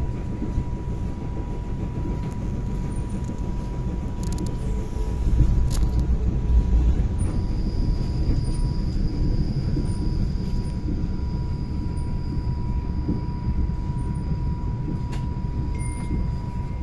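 Electric passenger train running, heard from inside the carriage: a steady low rumble of wheels on rails with a thin, constant whine over it. The rumble swells louder for a couple of seconds about five seconds in.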